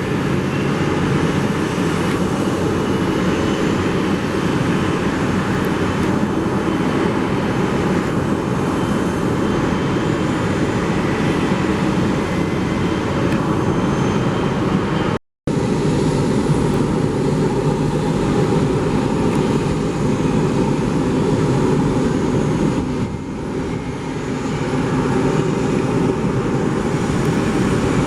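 Jet airliner engines running, a loud steady noise with a faint high whine, cut off for a moment about halfway through where one clip is spliced to the next.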